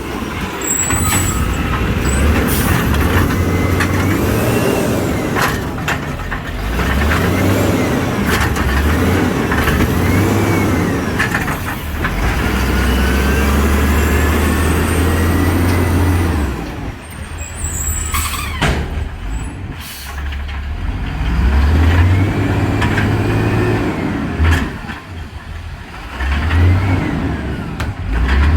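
Old garbage truck's engine revving up and falling back again and again while it collects recycling, with short air-brake hisses now and then.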